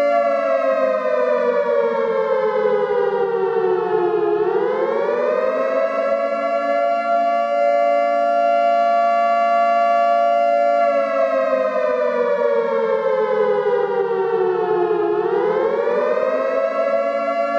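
Warning siren wailing in long cycles: the pitch holds steady, slides slowly down over about four seconds, then swoops quickly back up and holds again, twice.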